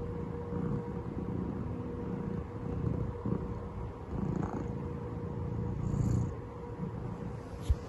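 Elderly calico cat purring, a low rumble that swells and fades with her breaths about once a second. A single sharp click near the end.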